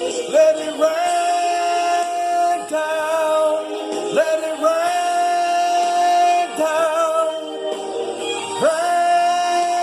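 Solo singing: a voice holds long notes with vibrato, sliding up into a new note three times, as in ad-libs at the close of a song.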